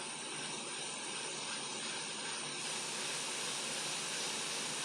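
Hot-air rework station blowing on a laptop motherboard, a steady hiss of air that turns a little brighter about halfway through.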